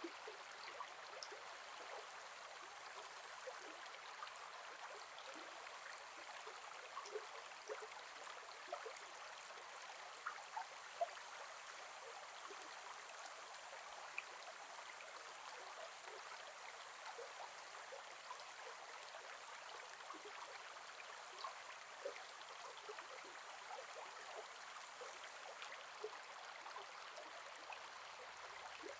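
Gentle forest river flowing: a steady, soft rush of water with small bubbling splashes and plops scattered through it, a few louder ones around the middle.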